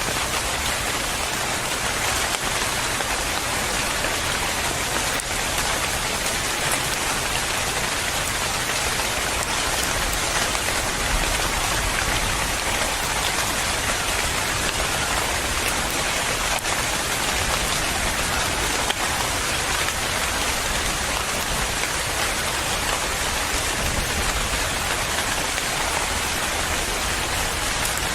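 Steady rain falling and pattering on a surface, an even, continuous hiss of drops.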